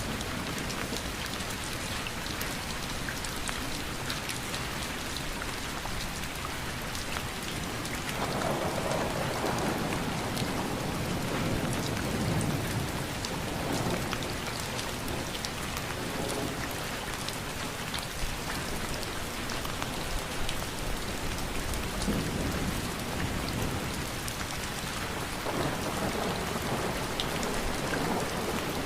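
Steady rain with dense pattering drops, broken a few times by low rumbles that swell and fade: the first about eight seconds in, another past the middle and one near the end.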